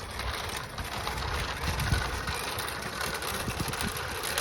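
Low, gusty rumble of wind buffeting the microphone while riding a bicycle.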